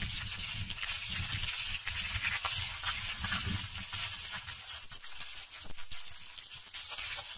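Battered chicken pieces shallow-frying in hot oil: a steady sizzle with fine crackling and popping as the oil bubbles around them.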